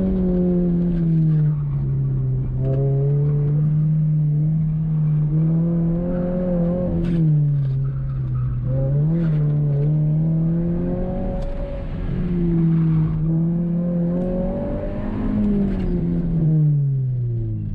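Subaru BRZ's flat-four engine with an aftermarket axle-back exhaust, pulled hard through an autocross course. The revs rise and fall repeatedly as the car goes through the turns, with a few sharp clicks along the way, then drop away near the end as the run finishes.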